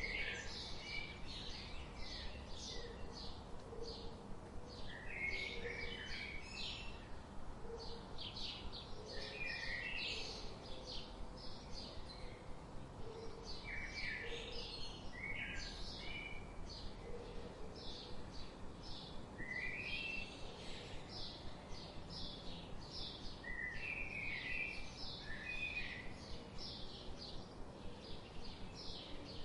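Songbirds chirping and twittering in quick, short repeated notes throughout, over a steady low background hiss. Faint low calls recur underneath.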